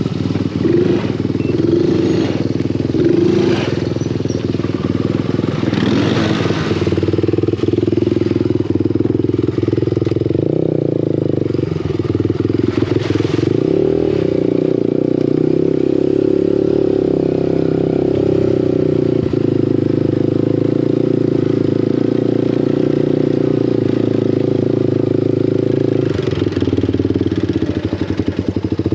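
Small off-road vehicle engine running steadily at moderate revs, its pitch shifting with the throttle a few times in the first several seconds and again around the middle, then holding even.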